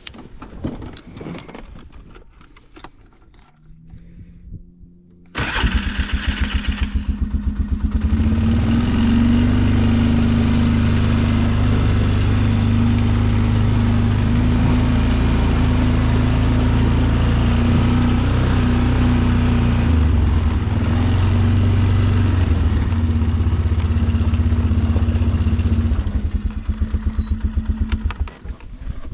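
A small vehicle engine is cranked and starts about five seconds in, then runs loud with a fast, even pulse while the vehicle drives off. It eases down and shuts off near the end.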